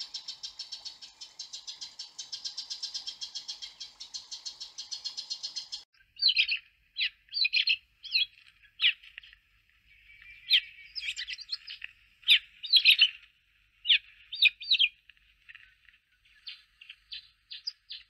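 Birds calling: a fast, even run of high chirps for about the first six seconds, then separate sharp high chirps at irregular intervals.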